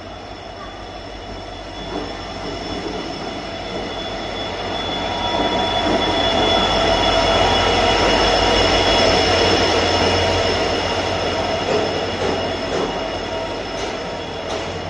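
WDG-4D diesel-electric locomotive and its passenger coaches pulling into a station platform. The engine rumble and rolling noise swell as the locomotive passes, loudest around the middle, then ease as the coaches go by. A steady high-pitched squeal from the train runs through it as it slows.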